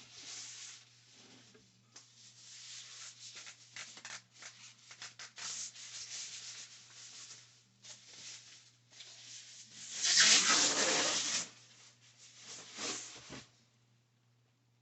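Packaging rustling and rubbing as a kettle is pulled out of its box and unwrapped, in irregular bursts; the loudest, longest rustle comes about two-thirds of the way in, with a shorter one after it.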